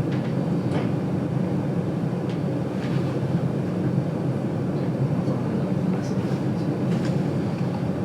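Steady rumble of the GoldenPass Belle Époque train running on the rails, heard from inside the carriage, with a few faint, short ticks scattered through it.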